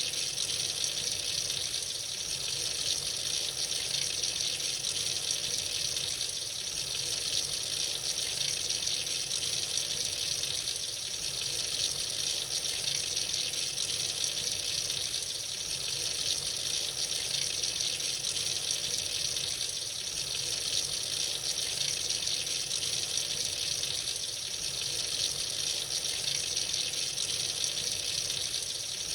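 Tap running freely into a sink, a steady even rush of water that does not change.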